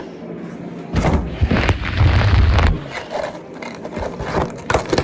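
Handling noise from opening Pop-Tarts packaging: irregular scraping and crinkling, with heavy bumps about a second in and again from about a second and a half to nearly three seconds, and a run of sharp clicks near the end.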